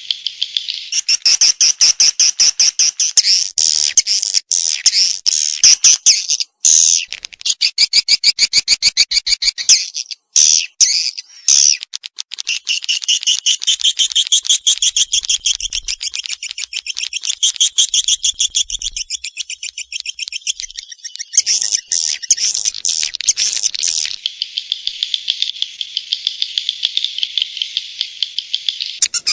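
Edible-nest swiftlet call used as a lure for swiftlet houses: fast, continuous trains of short high chirps and twitters, broken by brief gaps about six and a half, ten and eleven seconds in.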